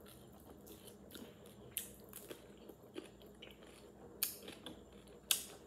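A person chewing raw cucumber slices close to the microphone: scattered wet crunches, with the two loudest near the end.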